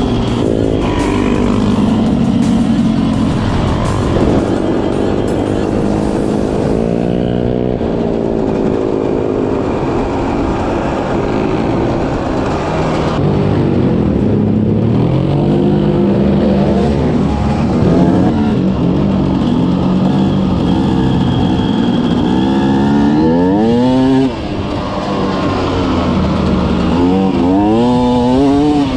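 An off-road vehicle engine running under constantly changing throttle, its pitch repeatedly climbing and dropping back as it is revved and eased off. There are sharp climbs in revs about two-thirds of the way in and again near the end.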